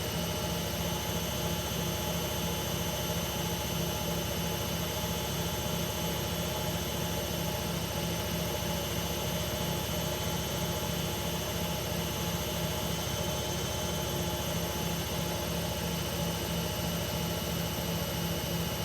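Hoover Ecologic Computer Washer 1300 washing machine spinning at a constant speed: a steady motor whine with a low hum and thin high tones over the rush of the drum.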